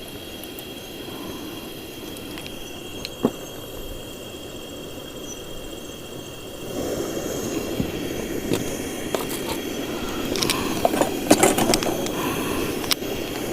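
Chicken cooking in curry paste in a hot pot over a fire, being stirred with a utensil that scrapes and knocks against the pot. The cooking noise grows louder about seven seconds in, and a quick run of clicks and knocks comes near the end.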